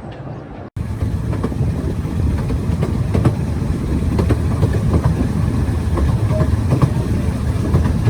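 Ravenglass & Eskdale Railway's 15-inch gauge train running along the track: a steady low rumble with frequent clicks from the wheels. After a brief cut less than a second in, it is louder.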